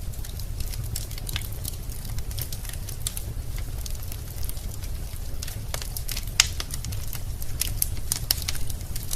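Wood fire burning in a fireplace: a steady low rumble of the flames with irregular crackles and pops from the logs, one sharper pop about six seconds in.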